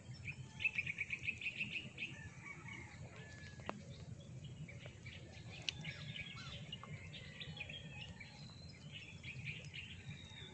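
Small birds calling: a fast trill of about ten high notes a second near the start, then scattered short chirps, over faint low background noise.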